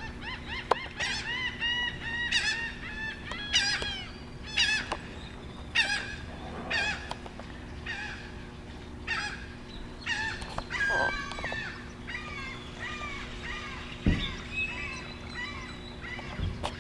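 Birds calling: a long series of loud, repeated calls about once a second, with softer overlapping calls later on. A couple of low knocks come near the end.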